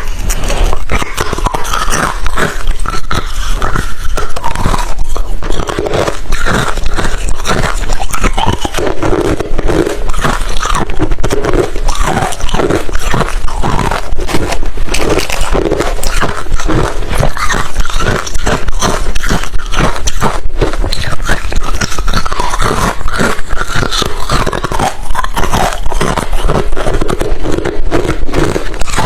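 Close-up crunching of hard refrozen crushed ice between the teeth: rapid, dense biting and chewing that goes on without a break.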